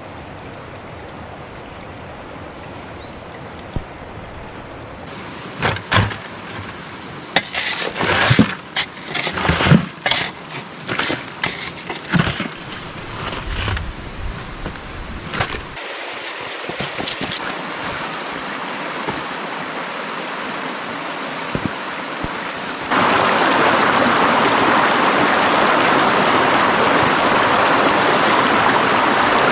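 Running water from a stream, a steady rush throughout. In the middle come many irregular knocks and scrapes. The water gets clearly louder about two-thirds of the way through.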